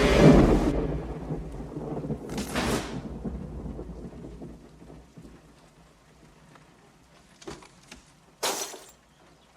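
Thunder and rain in a film storm scene: a loud thunderclap at the start rumbles away over about four seconds under a steady hiss of rain, with a second crash about two and a half seconds in and a short sharp crack near the end.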